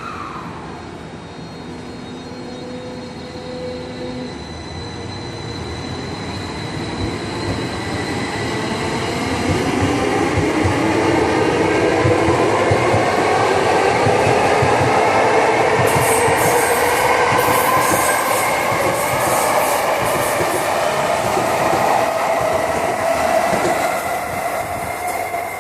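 Tokyo Metro 05 series train with permanent-magnet synchronous (PMSM) traction motors pulling away. The inverter and motors whine in several tones that rise steadily in pitch as it accelerates, growing louder over the first ten seconds, over the rumble of wheels on rail.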